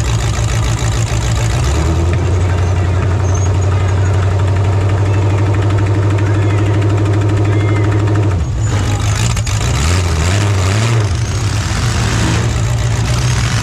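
Demolition derby truck engines running loud and steady, their pitch holding, then breaking up and changing about eight and a half seconds in.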